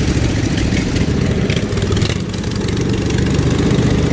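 Riding mower's small gasoline engine running steadily at low speed with an even, fast pulse.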